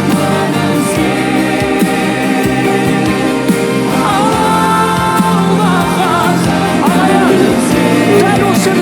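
Music with singing: long held chords, then a solo voice enters about four seconds in, sliding and wavering in pitch.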